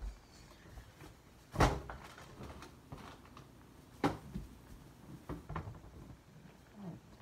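Kitchen cupboard doors being opened and knocked shut: two loud bangs about two and a half seconds apart, then a few lighter knocks.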